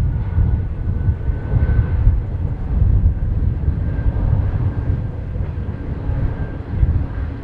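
Freight train of empty Boeing fuselage flatcars rolling past on a climb: a steady low rumble of wheels on rail, with faint whining tones now and then.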